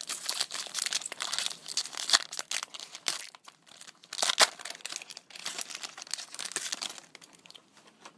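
Topps Update baseball card pack wrapper being torn open and crinkled by hand, a dense irregular crackling that thins out near the end.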